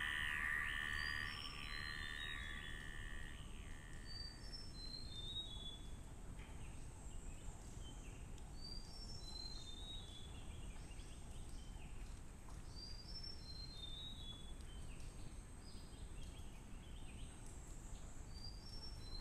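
Rainforest ambience: a bird repeats a short phrase of four or five high whistled notes stepping down in pitch, about every four to five seconds, over a steady high insect drone. Electronic music with gliding tones fades out in the first few seconds.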